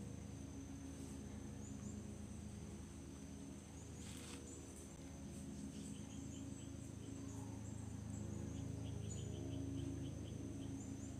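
Insects trilling steadily with a high, unbroken tone, and a run of short repeated chirps in the second half, over a low steady hum.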